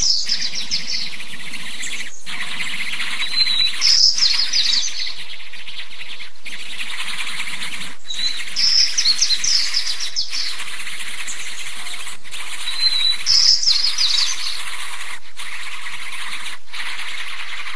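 Birds chirping in short high-pitched bunches, about one every four and a half seconds, over a steady high buzz.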